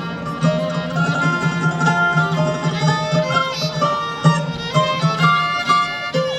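Country band playing live: a fiddle melody over guitar, with a steady pulsing low note underneath, in an instrumental stretch of the song.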